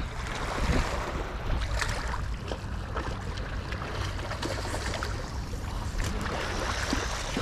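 Steady wind rumble on the microphone over the wash of river water, with a few faint scattered ticks.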